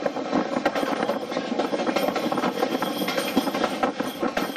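Railway carriage running along the track, heard from an open window: a steady rumble of wheels on rail with frequent, irregular sharp clicks and knocks.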